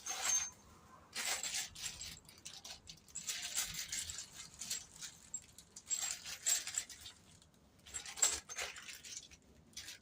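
Small loose metal hardware from a torque converter kit clinking and jingling as it is handled, in about five short spells with quiet gaps between them.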